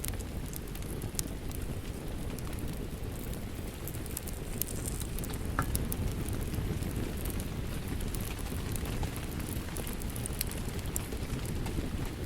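Steady rain with a wood fire crackling, scattered small sharp pops over the rain's low, even rush, one louder pop a little before the middle.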